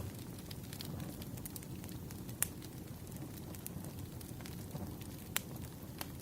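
Campfire crackling: a steady low rumble of burning wood with scattered sharp pops, the loudest about two and a half and five and a half seconds in.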